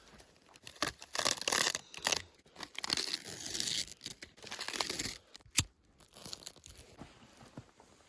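Fabric rustling and crinkling in irregular bursts, with a few sharp clicks in between.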